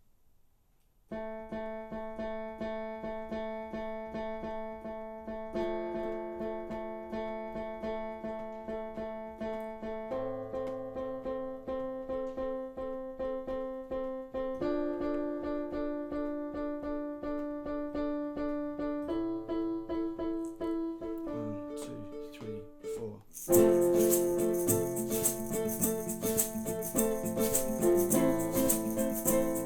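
A keyboard plays a pulsing pattern of repeated chords, changing chord every few seconds. About 23 seconds in, a shaker and the rest of the band come in and the music gets much louder.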